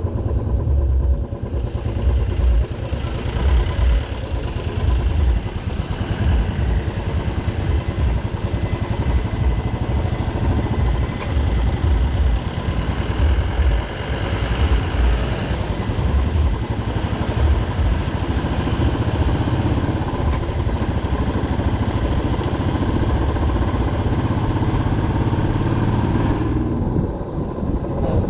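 Motorcycle riding along, with its engine and a gusty low rumble of wind on the microphone. A rushing hiss comes in about a second and a half in and fades out near the end.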